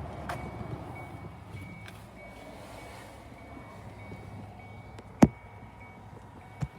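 A faint high-pitched beeping, like a vehicle's reversing alarm, comes and goes over a low steady rumble. A sharp click or knock about five seconds in is the loudest sound, with a smaller one near the end.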